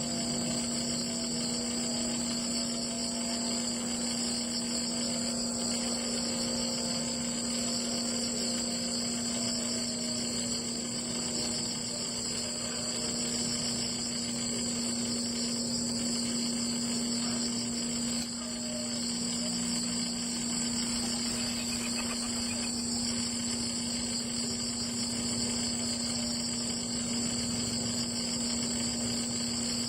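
Steady, continuous high-pitched insect chirring over a constant low hum.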